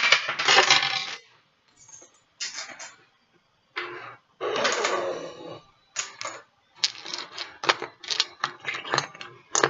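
Dominoes clattering and clicking against each other as they are handled and set down: a few short rattling bursts, then a quick run of sharp separate clicks in the second half.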